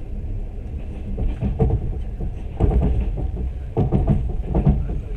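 Passenger train running, a steady low rumble heard from inside the carriage. From about a second and a half in, louder uneven pitched sounds come and go over it.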